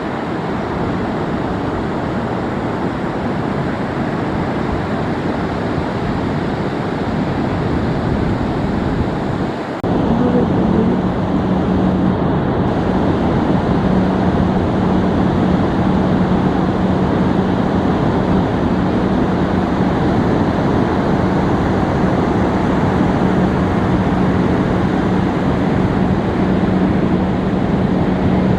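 Ocean surf washing in, with wind on the microphone. About ten seconds in there is a brief break, after which a steady low hum joins the surf and holds.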